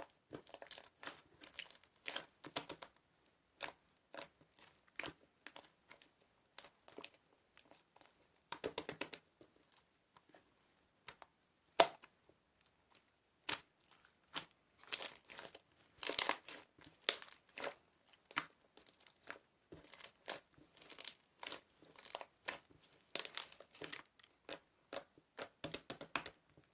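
Irregular crinkling and crackling with scattered sharp clicks, as of something being crumpled and handled close by.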